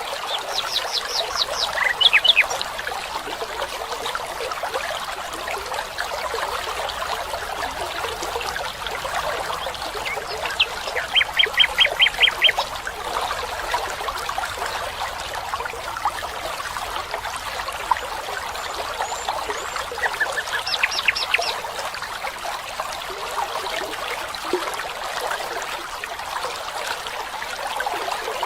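Running water of a stream or brook, steady throughout, with a bird calling over it in quick trills of short repeated high notes, three times.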